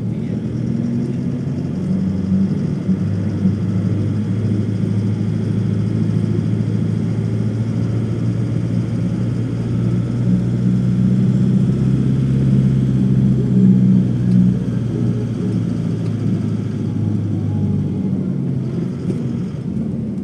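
Steady low engine and road rumble of a moving motor vehicle, heard from inside.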